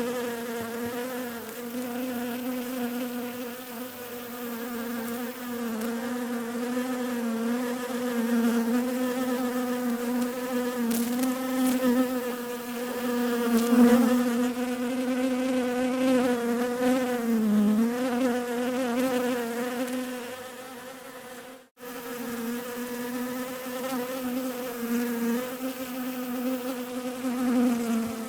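Bees buzzing in a steady drone, the pitch wavering gently up and down. It drops out for an instant about three-quarters of the way through.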